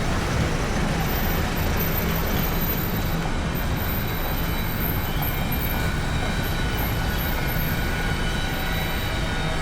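Steady noise of motor traffic on a city street, with a few faint high tones over it.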